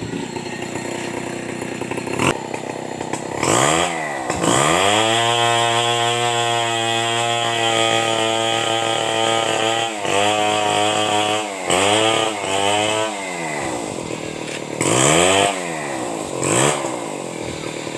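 Stihl 070 two-stroke chainsaw idling, then revved up about four seconds in and held at full throttle for around five seconds. It then gets several short bursts of throttle and drops back to idle, with two more quick revs near the end.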